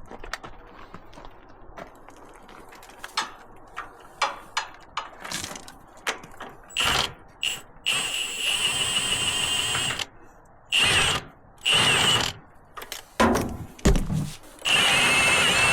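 Cordless power drill spinning in several runs: one of about two seconds, then two short bursts, then a longer one near the end, backing out the bolts that hold the pickup's wooden bed boards. Before it, a scatter of clicks and knocks from tools being handled.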